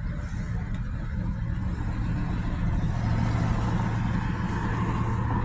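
Motor vehicle traffic: a steady low engine hum with road noise, growing slightly louder partway through.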